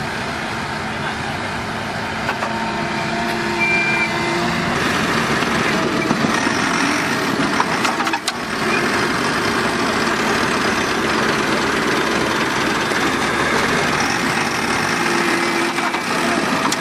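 A heavy vehicle's engine running steadily. It grows louder a few seconds in and dips briefly about eight seconds in.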